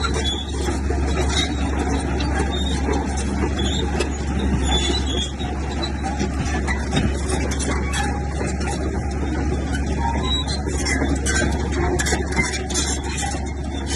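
Bulldozer's diesel engine running steadily, with a rapid metallic clatter from its tracks that grows busier near the end.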